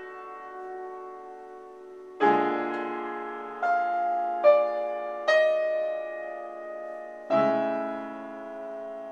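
Piano plays a short jazz line over a ii-V-I in A major with a tritone substitution: a held note, then a chord with a bass note about two seconds in, three melody notes above it, and a final chord about seven seconds in that rings and fades.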